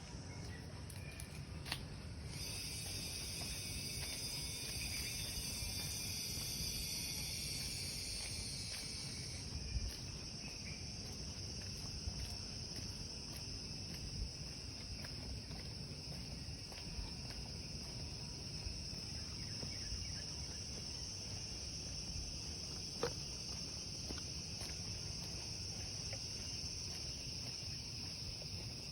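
Chorus of forest insects: a steady high-pitched shrill, joined about two seconds in by a second, denser buzzing layer that stops at around nine and a half seconds. A low rumble runs underneath, with a few faint taps.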